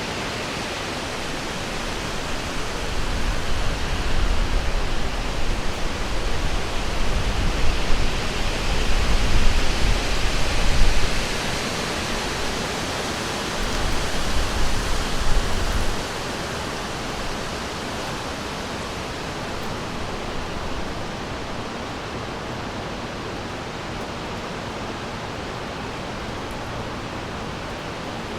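River water rushing steadily, a dense even hiss. A deeper, uneven rumble rises over it from about three seconds in and stops suddenly about sixteen seconds in.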